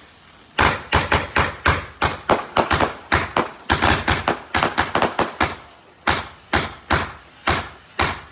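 Fireworks firing a rapid string of sharp bangs, about three or four a second, starting about half a second in and spacing out a little near the end.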